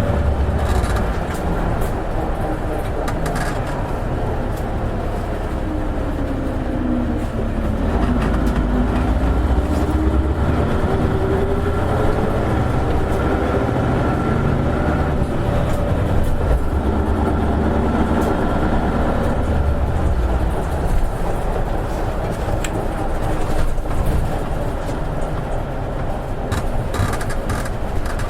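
Isuzu Erga KL-LV280N1 city bus running under way, its V8 diesel engine and drivetrain humming steadily. The engine pitch dips and then climbs again about seven to nine seconds in.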